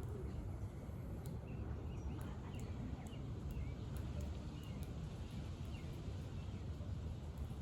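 Outdoor ambience: small birds chirping faintly now and then over a steady low rumble of background noise, with a few faint ticks.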